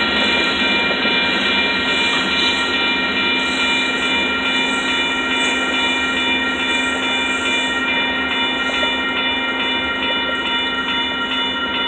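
Covered hopper cars of a sand-laden freight train rolling past at steady speed as the end of the train goes by, with steady ringing tones over the rolling noise.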